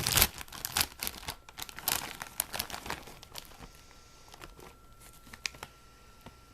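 A Herr's potato chip bag being crinkled and pulled open: dense crackling, loudest in the first few seconds, then thinning out to scattered crinkles.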